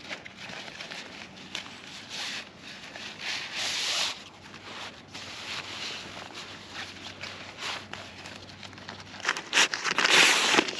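Crinkling and rustling of material being handled, in irregular bursts, loudest near the end.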